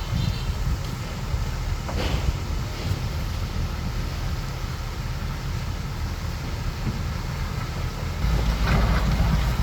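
Bulldozer's diesel engine running steadily, with one short clank about two seconds in; the engine gets louder and heavier about eight seconds in.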